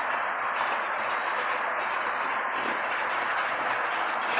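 A steady rushing noise, even in level throughout, with no clear engine note in it.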